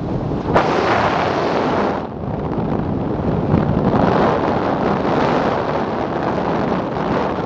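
Heavy wind rushing over the microphone of a parachutist's camera: a loud, continuous rush that gusts up and down, with a brief lull about two seconds in.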